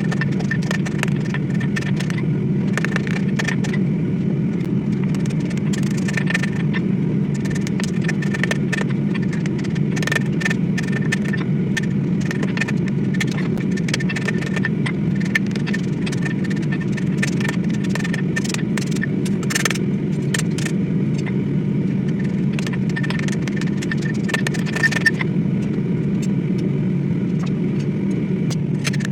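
Workshop power tool motor running steadily while steel is worked against it, with scattered scraping clicks and a faint high metallic ring that comes and goes.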